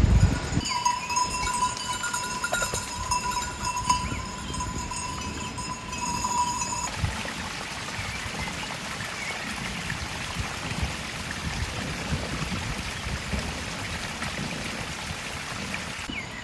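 Livestock bells ringing with a flock of animals moving. About seven seconds in, this changes abruptly to a steady rushing sound.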